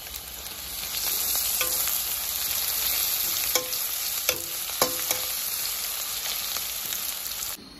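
Sliced onions and garlic sizzling in mustard oil in a stainless steel kadai while being stirred, the metal spatula clinking sharply against the pan about four times. The sizzle cuts off suddenly near the end.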